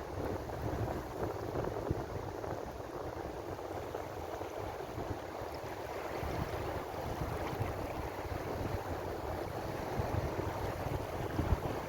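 Ocean waves washing in a steady, unbroken surge, with no single crash standing out. A low, flickering rumble of wind on the microphone runs underneath.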